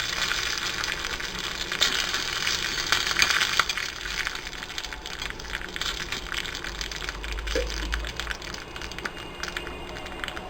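Tempering of mustard seeds, dried red chillies and curry leaves sizzling and crackling in hot oil in a pan, loudest in the first few seconds and then settling to a lighter sizzle.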